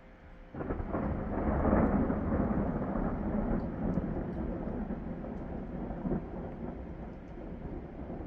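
Thunder: a clap breaks in suddenly about half a second in, peaks a second or so later, and rolls on as a long rumble that slowly fades.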